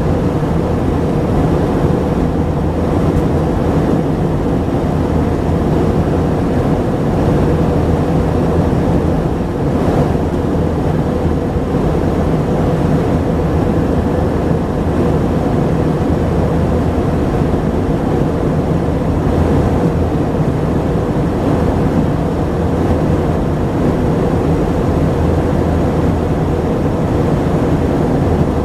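Steady drone inside the cabin of an Airbus A319-132, with the engines' hum over a rush of noise. It holds an even level throughout.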